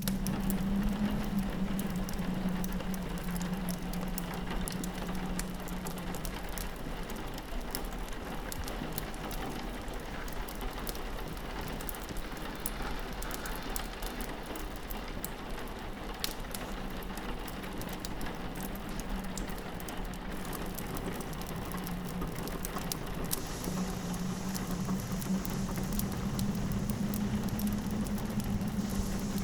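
Layered ambience of rain pattering on a window and a fireplace crackling with scattered small pops, over a low steady wind drone that fades out for a while mid-way and returns after about 23 seconds.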